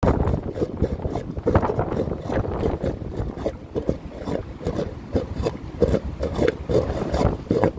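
Strong gusting wind buffeting the microphone with a low rumble, over a strange noise from wind blowing through a metal grid: short, irregular pulses of a mid-pitched hum, several a second.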